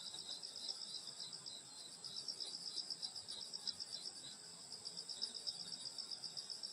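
A chorus of crickets and other grass insects: steady high-pitched trilling from several insects at different pitches, one of them pulsing in a fast, even beat.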